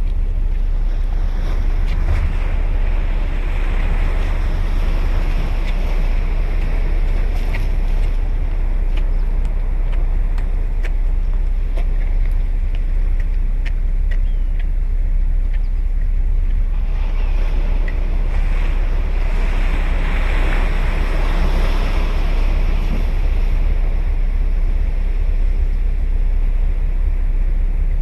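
Sea waves breaking and washing up the beach, swelling twice. Under them runs a steady low rumble of wind on the microphone.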